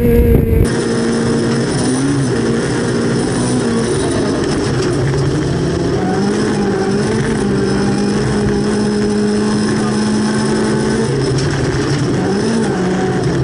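Volvo 240 rally car's engine running hard at high revs on a gravel stage, its pitch dipping and rising briefly a few times. Less than a second in, heavy wind rumble on the outside microphone cuts off, and the engine is then heard from inside the cabin over road noise.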